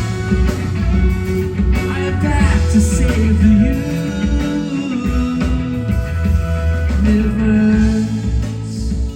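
Live rock band playing: electric guitar, bass and drums, loud and continuous.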